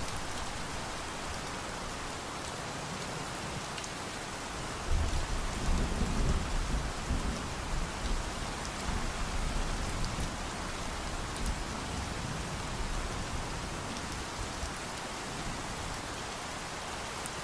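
Steady rain falling, with a low rumble of thunder that swells about five seconds in and fades away over several seconds.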